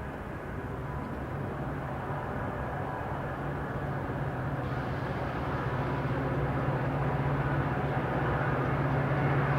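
EMD diesel locomotive of a Metra commuter train approaching, its engine drone growing steadily louder, with rising rail and wheel noise.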